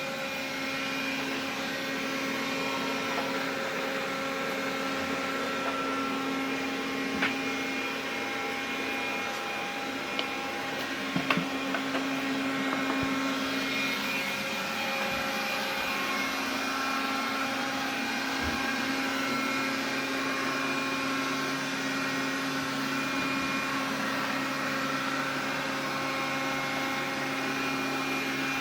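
Xiaomi vacuum cleaner running with a steady whirring hum, several whining tones fading in and out over it, and a few light clicks near the middle. This is the extraneous noise the owner is documenting.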